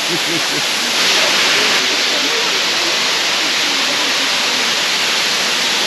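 Waterfall: a steady rush of falling water, with faint voices underneath.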